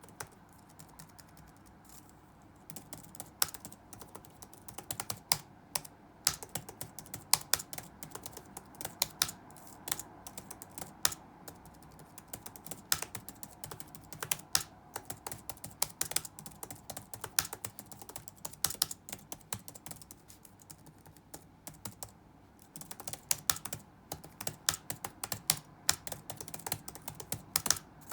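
Typing on a computer keyboard: fast, irregular runs of key clicks with short pauses between phrases, over a faint steady background hum.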